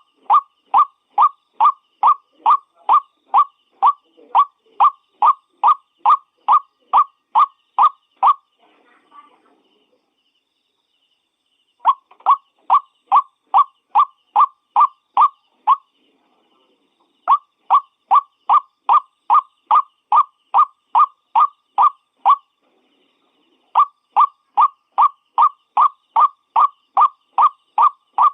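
White-breasted waterhen (ruak-ruak) calling: a fast series of short, loud, evenly repeated notes, about two to three a second, in bouts broken by short pauses. This is a lure recording of the call, used to draw the birds in.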